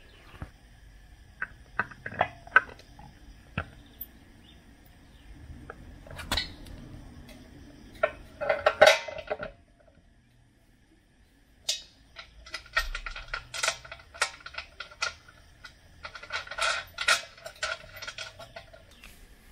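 Small metal parts, the compressor's wheels and their fittings, clinking and rattling as they are handled. Scattered knocks come first, then three bouts of jangling with a ringing metallic tone, about nine, twelve and seventeen seconds in.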